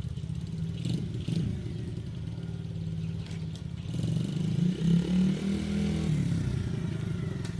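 Dirt bike engine running, revving up about four seconds in and easing back down around six seconds.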